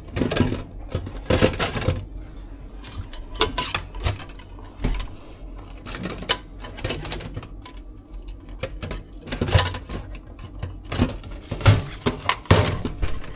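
Irregular clicks, knocks and light clatter of containers and utensils being handled and set down while a food stall is tidied.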